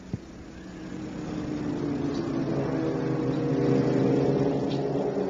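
1000 cc superbike engines running at a steady, moderate pace and growing louder as the bikes approach, with a short click just after the start. The bikes are held to safety-car speed.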